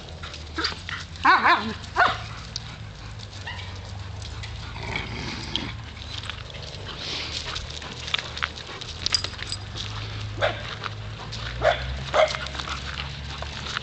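Dogs giving short, scattered barks and yips, the loudest about a second and a half in, with more near the end.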